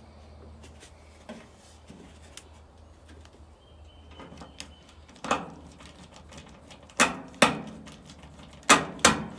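Sharp knocks and clatter from work on a dryer's cabinet while its screws are refitted: light clicks at first, then five loud knocks in the second half, two of them in quick pairs.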